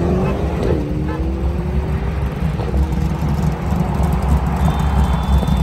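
Car engine accelerating through the gears over a heavy low rumble: its pitch climbs, drops at a shift about a second in, climbs again, drops at another shift near three seconds, then climbs slowly.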